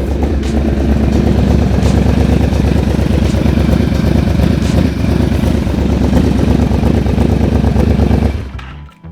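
Yamaha Vmax's V4 engine running steadily during a warm-up. It cuts off abruptly shortly before the end, leaving faint music.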